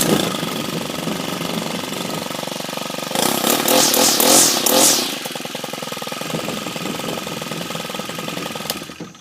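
Stihl FS 90 R string trimmer's 4-MIX engine catching on the first pull from a cold start, then running at idle. It is revved up for about two seconds a few seconds in, drops back to idle, and is shut off near the end.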